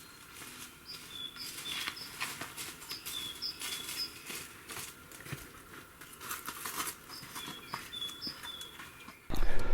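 A songbird sings a short phrase of a few high, clear notes, three times, over scattered crackling and snapping of dry twigs and forest litter. Just before the end a much louder low noise cuts in suddenly.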